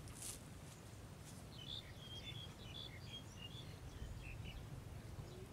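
Faint outdoor ambience of small birds chirping in a run of short, high notes over a steady low rumble, with a brief rustling hiss at the start.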